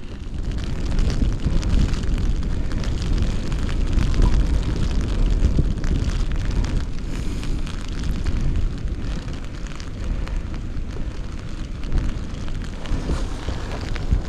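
Wind buffeting the microphone: a loud, gusting low rumble, with a light patter of rain over it.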